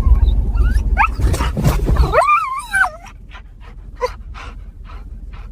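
A wolf whimpering: one wavering, whining cry about two seconds in, over a low rumbling noise that stops just as the cry begins, followed by faint soft ticks.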